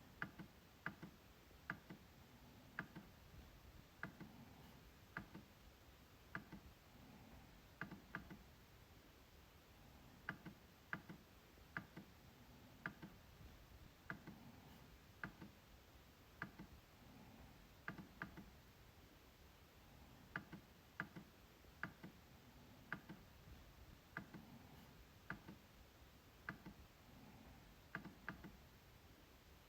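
MacBook trackpad being clicked: sharp, short clicks at an irregular pace of about one or two a second, some coming in quick pairs.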